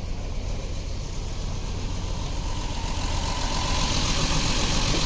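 2011 Jeep Wrangler's 3.8-litre V6 idling with a misfire, which the mechanic suspects comes from the cylinder 2 ignition coil. A hiss grows louder from about halfway through.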